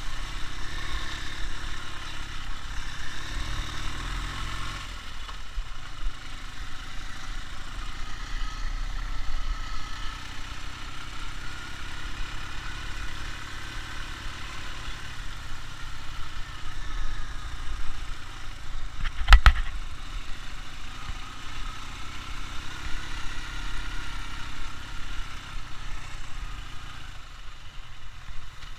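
Ural motorcycle's flat-twin engine running, its revs slowly rising and falling, with a single sharp knock about two-thirds of the way through.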